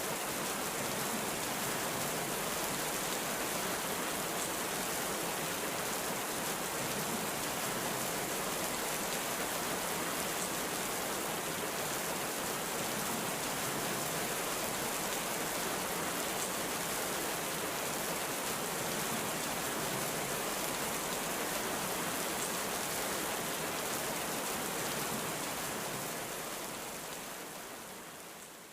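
Heavy rain falling steadily, an even hiss with no thunder. It fades out over the last few seconds.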